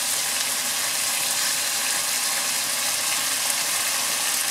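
Chicken pieces and chopped tomato frying in oil in a wok, a steady sizzle.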